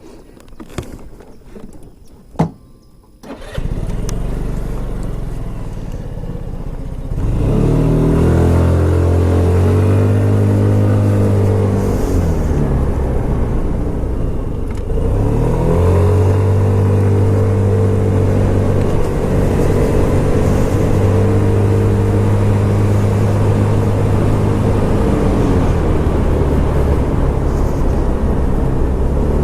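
Scomadi TT125 scooter's 125cc single-cylinder engine starting after a few clicks, idling briefly, then pulling away with a rising drone and running steadily. It eases off once about halfway through, then picks up again.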